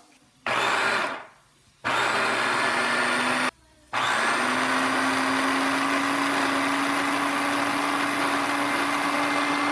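Electric blender blending the enchilada sauce of cream of mushroom soup, green chilies, sour cream and milk. It runs in three goes: a short burst, a second burst of about a second and a half, then a long steady run, its motor pitch rising slightly as it gets up to speed.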